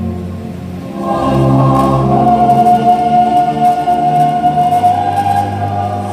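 Choral music of voices singing long sustained notes, with one high note held for about three seconds in the middle.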